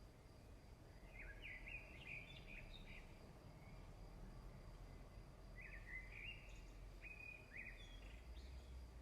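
Faint birds chirping over a low steady background hum, in two short bouts of quick, sliding notes, one about a second in and another past the middle.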